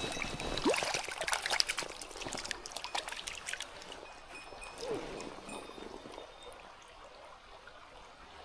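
Mountain stream flowing and trickling, with a flurry of close splashes and clicks over the first few seconds that then dies away, leaving the steady water sound.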